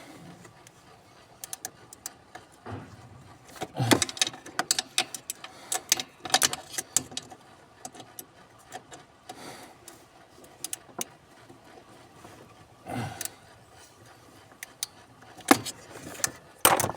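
Hand tools, screws and plastic trim being worked around a truck's gas pedal: irregular clicks, knocks and small metallic rattles, in clusters about four seconds in and again near the end.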